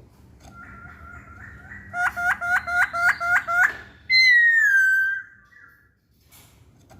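A poksay Hongkong laughingthrush singing in clear whistles: soft notes first, then a quick run of about seven sharp notes, then one loud whistle that falls in pitch about four seconds in.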